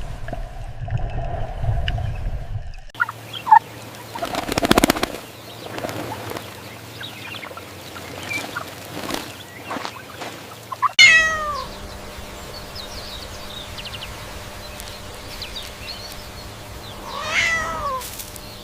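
A series of short animal clips. The clearest sounds are two falling, pitched cat meows, one about eleven seconds in and another near the end, over a low steady hum.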